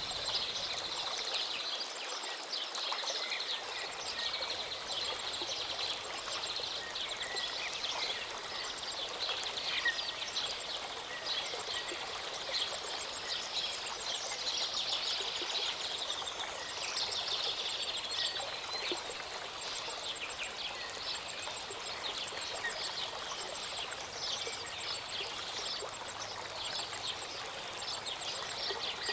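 Small mountain stream or waterfall running steadily, with many birds chirping and trilling over it.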